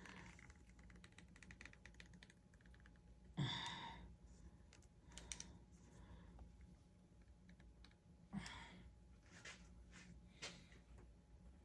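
Faint clicks and taps of a small screwdriver working on a plastic action figure, with two louder knocks about three and a half and eight and a half seconds in.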